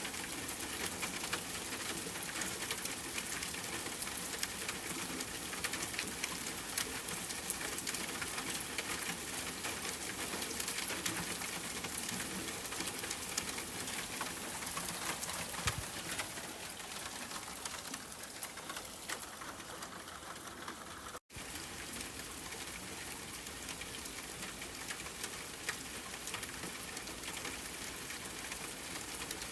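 Steady rain falling, a dense patter of drops pattering on surfaces. About two-thirds of the way through, the sound cuts out completely for a split second, then the rain carries on.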